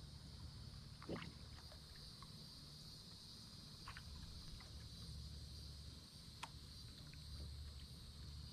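Faint sounds of a kayak drifting downriver: a steady low rumble of water and wind, under a steady high-pitched hiss, with a few soft knocks of paddle or hull about a second in, around four seconds and again past six seconds.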